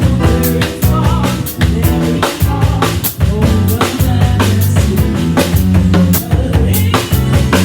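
A band playing without vocals: a drum kit with bass drum and snare strokes several times a second over bass and held chords.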